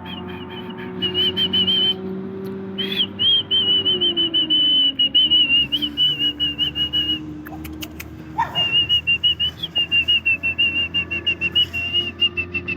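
A high, rapidly warbling whistle-like sound, in two long stretches with a break about halfway through, over a low steady hum.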